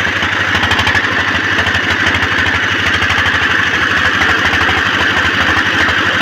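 Single-cylinder four-stroke 1Ch8.5/11 diesel engine of a generator set running steadily at constant speed, with an even, rapid firing beat.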